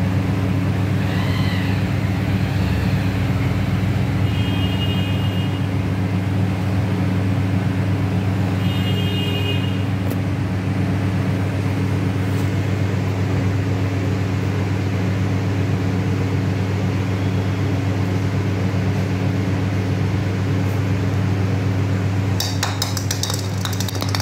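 A steady low mechanical hum, like a running motor, with a few faint short high chirps early on and a run of rapid clicks near the end.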